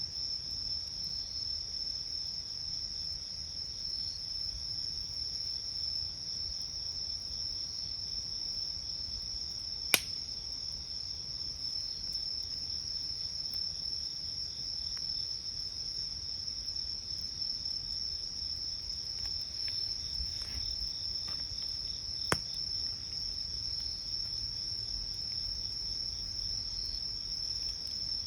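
Crickets trilling steadily at night, with fainter insect chirps pulsing in a regular rhythm. A wood fire pops sharply twice, about ten seconds in and again about twenty-two seconds in.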